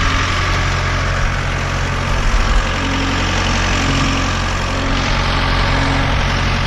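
Ford 5610 tractor's four-cylinder diesel engine running steadily at idle.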